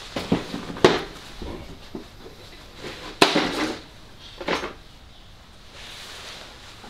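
Hand tools clinking and knocking against metal while bolts are worked with a spanner and socket: a few separate sharp clanks, the loudest about a second in and just after three seconds in, with a smaller one around four and a half seconds.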